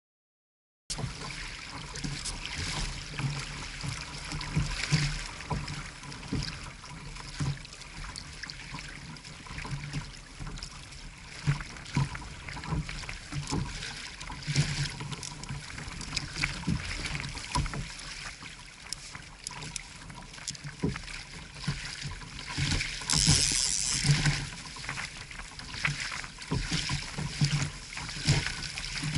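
Water sloshing and splashing around a fishing kayak, with many irregular knocks and low bumps against the hull and a louder rush of noise about three-quarters of the way through.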